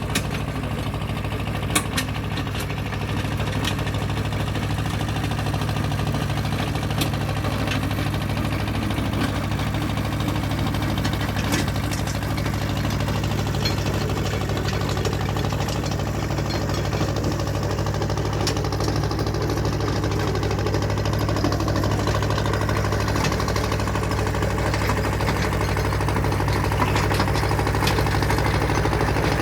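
Engine idling steadily at an even pitch, with a few sharp clicks or knocks on top.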